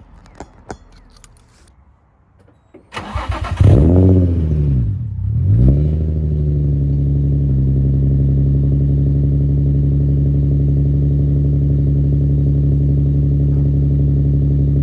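Infiniti G35's 3.5-litre VQ35DE V6, running through a straight-pipe exhaust, is started: a brief crank about three seconds in, a loud flare as it catches, the revs rising and falling, then a steady loud idle.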